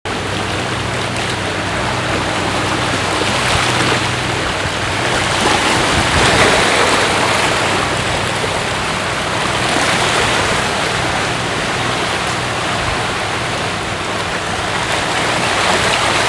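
A steady rushing noise that swells and eases every few seconds, with a faint steady low hum underneath.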